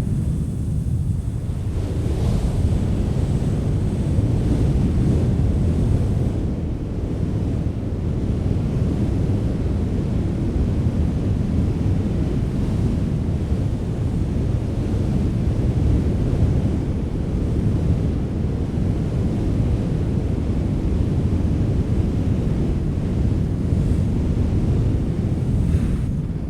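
Wind blowing steadily, a low, deep rush with little hiss above it.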